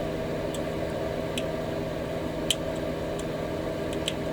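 Scattered light ticks and clicks, about half a dozen, of small model-kit parts and tools being handled on a workbench, over a steady low electrical hum.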